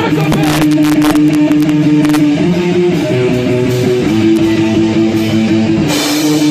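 Live rock band playing loud: electric guitar chords held and changing every second or two over bass, with frequent cymbal and drum hits. The recording itself sounds bad.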